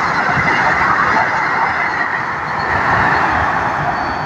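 Vande Bharat electric multiple-unit train passing close at speed: a steady rushing noise of wheels on rail and air, with no horn.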